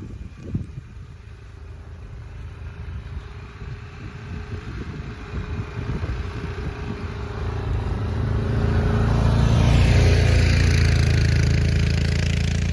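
A small vehicle engine running steadily while plowing snow, growing louder as it draws closer and staying loud near the end.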